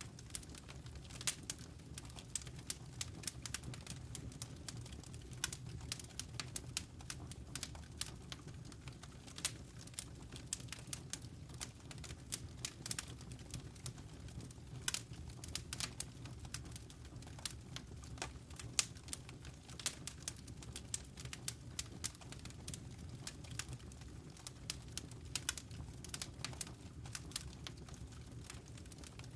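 Wood fire crackling, with irregular sharp pops and snaps scattered over a steady low rumble of the burning fire.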